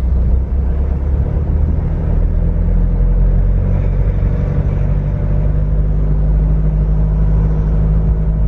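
Car on the move, with a steady low engine and road rumble heard from inside the cabin.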